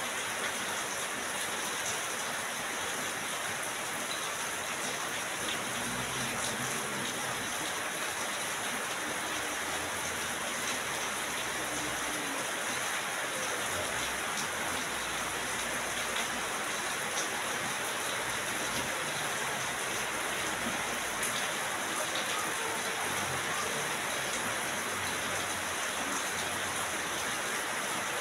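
Steady rain falling, an even hiss of many drops with a few separate drop ticks here and there.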